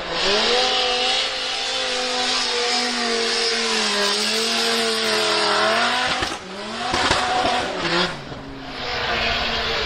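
Drift car's engine held at high revs, wavering around a steady pitch, with its tyres squealing under wheelspin. The revs drop about six seconds in, with a couple of short sharp spikes, then settle back into a steady high-rev drone.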